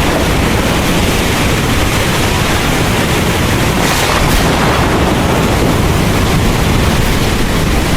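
Heavy rain pouring steadily, with a deep low rumble underneath. The hiss swells briefly about four seconds in.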